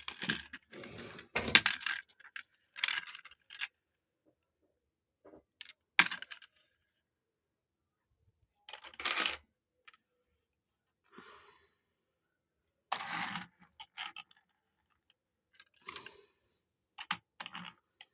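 Small hard toy vehicle models being handled, giving short bursts of clicking and clattering separated by silent gaps.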